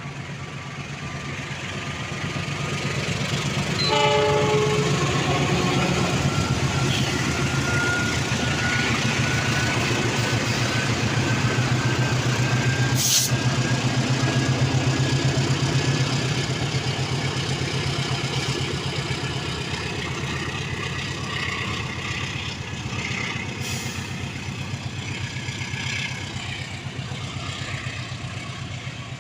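A train passing close by, its low rumble building over the first few seconds and easing off after the middle, with a short horn blast about four seconds in. A faint whine rises slowly in pitch as it goes by.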